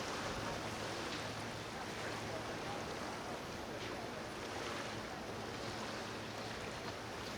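Marina waterfront ambience: a steady wash of outdoor noise with a low, even hum underneath.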